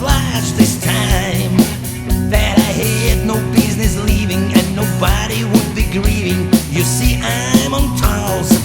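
Live band playing an up-tempo country-rock song, with a steady drum beat under wavering melodic lines.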